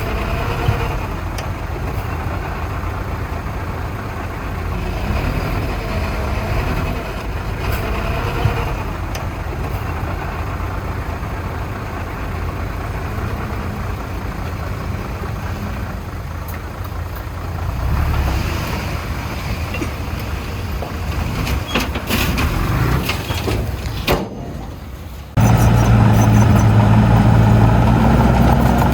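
Heavy diesel engines of earthmoving machinery running, the engine note swelling and easing. About 25 seconds in the sound switches abruptly to a louder, steadier engine.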